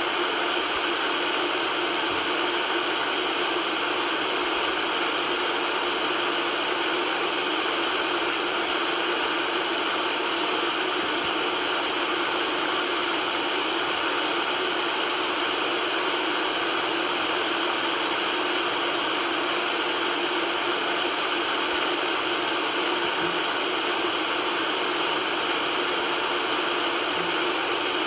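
Steady white noise: an even, unchanging hiss, light in the bass.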